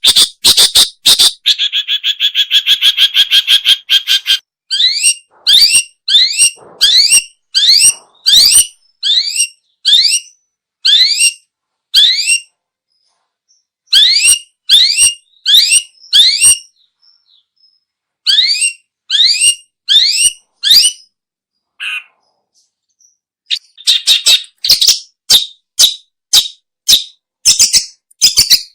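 Long-tailed shrike (pentet/cendet) calling loudly: a fast run of sharp notes, a drawn-out harsh buzz, then a long series of quick upward-sweeping whistled notes about two a second, broken by a few short pauses, and rapid chatter again near the end.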